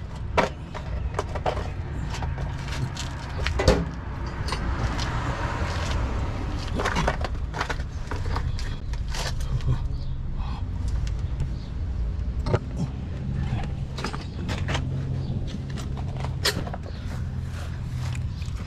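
Car engine idling steadily, with irregular metallic clinks and knocks from handling the exhaust pipe and its hanger.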